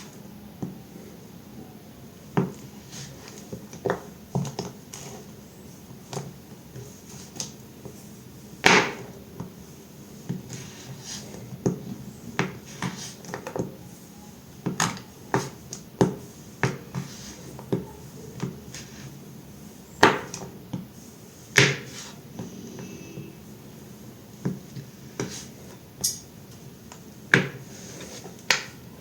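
A knife cutting through bar soap: a series of short, sharp cuts at irregular intervals, roughly one a second, with a few much louder than the rest.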